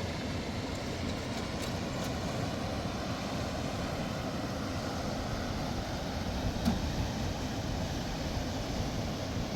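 Steady low rumbling noise, with a few faint clicks, the clearest about two-thirds of the way through.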